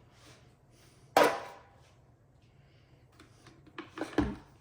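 Kitchen handling sounds: one sharp, loud knock about a second in, then several lighter knocks and clicks near the end, as food-processor parts and containers are handled.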